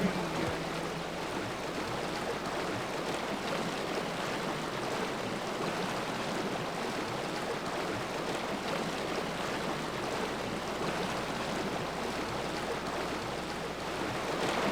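Mountain river running, a steady rush of flowing water.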